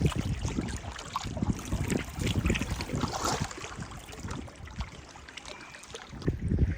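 Canoe paddle strokes in the water, with splashing and water trickling off the blade, and wind gusting on the microphone; the wind is strongest near the start and again near the end.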